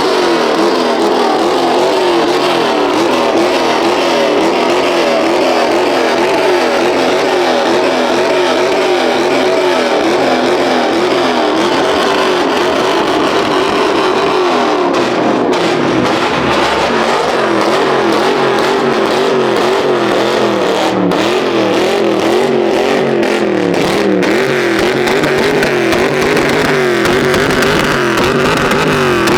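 Car engine held at high revs, its pitch swinging up and down again and again as the throttle is worked, with a steady hiss of noise over it.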